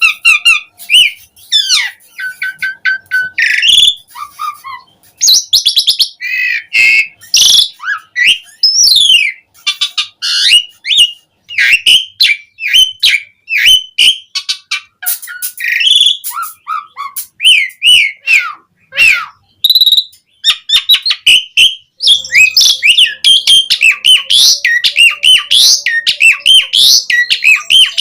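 Asian pied starling singing energetically: a fast, varied stream of whistles, chirps and rattling notes with brief pauses, becoming denser and more continuous over the last several seconds.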